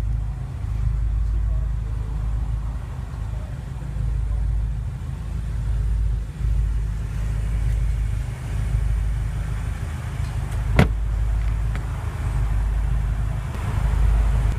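BMW M5 (F10) twin-turbo V8 idling as a steady low rumble, with one sharp click about eleven seconds in.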